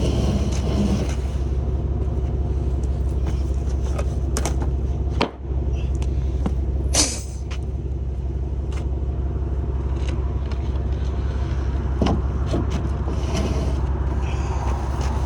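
Truck engine running with a steady low rumble, with a few brief clicks and a short hiss about seven seconds in.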